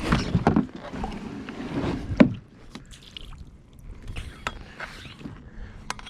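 Rustling and knocking of handled gear, busiest in the first two seconds, with a sharp knock just after two seconds in and lighter scattered clicks after.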